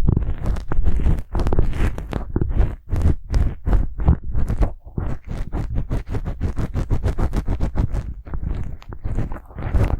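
Rapid, prickly brushing: a bristle brush stroked scratchily back and forth, several quick strokes a second with a few short pauses.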